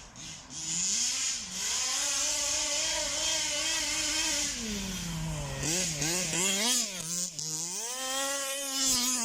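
Zenoah G320 two-stroke engine of a 1/5-scale petrol RC buggy running through a big-bore exhaust: it revs up and holds high for a few seconds, drops back, blips the throttle several times, then revs up and holds again before falling off near the end.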